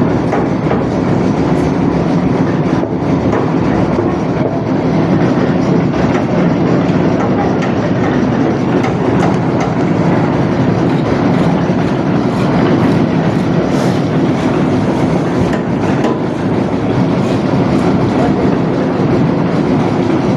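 Concrete mixer running steadily, loud, with a continuous rattling clatter and a few sharp clicks near the middle.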